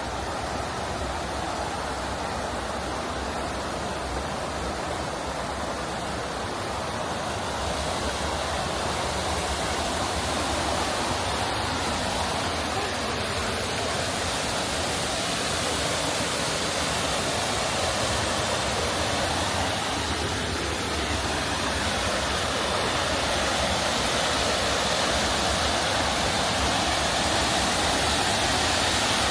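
Steady rushing of river water, a constant hiss that grows gradually louder.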